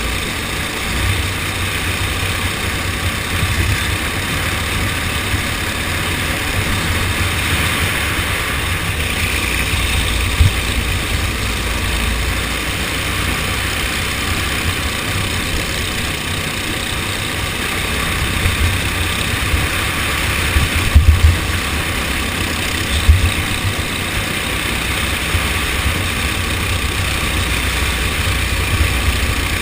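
TAG kart's two-stroke engine running under heavy wind buffeting on the microphone, with a few sharp thumps about two-thirds of the way through.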